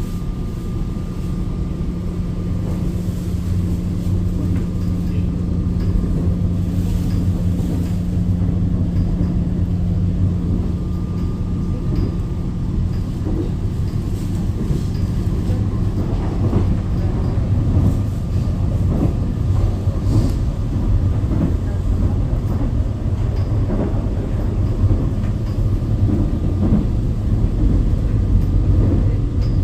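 Subway train running, heard from inside the carriage: a steady low rumble with motor hum, a little louder and rougher in the second half.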